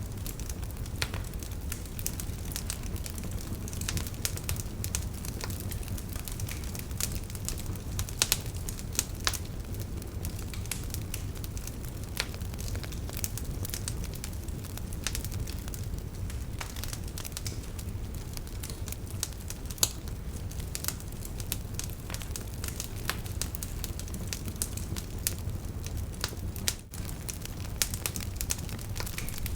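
Wood fire in a fireplace crackling, with many irregular sharp pops over a steady low rumble of burning. The sound dips briefly near the end.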